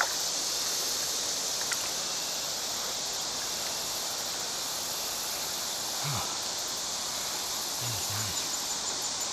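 Steady, unbroken buzzing of a summer insect chorus, high-pitched and even.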